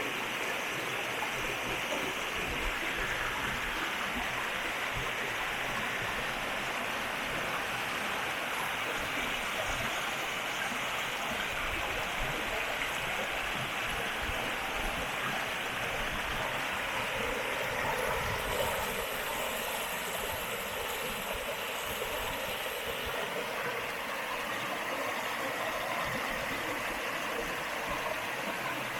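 River water rushing steadily over its bed, with a slight change in its tone a little over halfway through.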